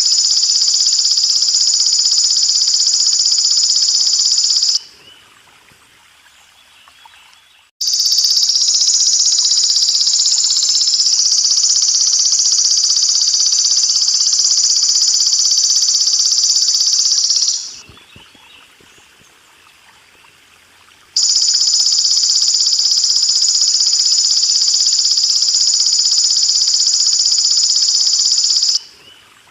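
Belalang emas (golden grasshopper) insect call used as a songbird training track: a loud, continuous high-pitched buzz in three long stretches, breaking off for about three seconds twice. A soft water trickle runs underneath and is heard in the pauses.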